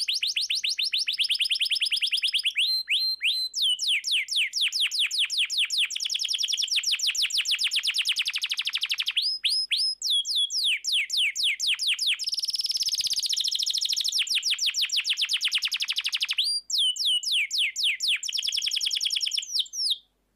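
Canary singing a long rolling song of fast trills: rapid runs of short down-slurred whistles, shifting to a new phrase every few seconds. It stops abruptly near the end.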